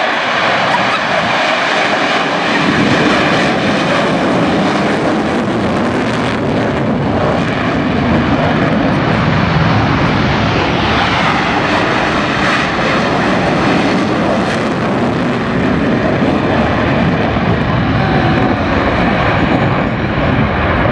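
Loud, steady military aircraft engine noise in flight, growing deeper about two seconds in.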